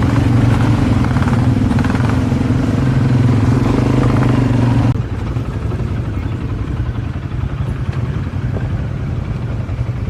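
A vehicle engine running steadily with a low, even hum. About five seconds in it cuts off abruptly, leaving a quieter rumble.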